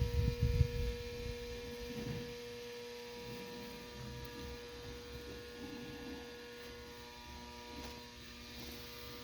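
Steady electrical mains hum, a buzzing tone with several overtones, from powered 460-volt electrical equipment. There are a few dull low bumps in the first second.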